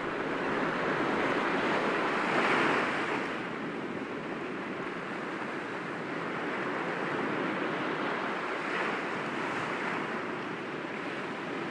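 Sea waves breaking gently against rocks, a steady wash of surf that swells to a louder break about two and a half seconds in and a smaller one near the end.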